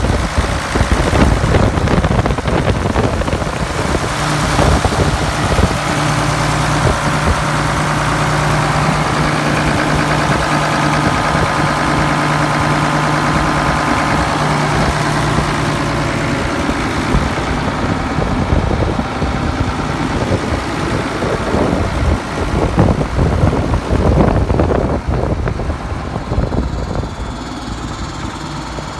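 1974 Case 970 tractor's engine running at a steady idle. About halfway through the even note gives way to a rougher, uneven running with scattered knocks, and it grows quieter near the end.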